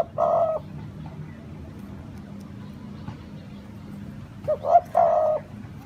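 A dove cooing twice, about four and a half seconds apart: each call is a couple of short notes followed by a longer held note. A steady low hum runs underneath.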